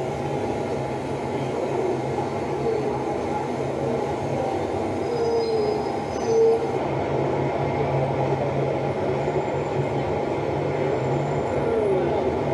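Heavy street traffic: a steady low engine drone from large vehicles, with a few brief squeals around the middle.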